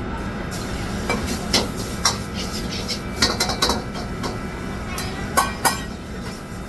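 Metal cookware and utensils clanking in a kitchen: a series of sharp knocks and clinks, a few grouped closely together, over a steady low rumble.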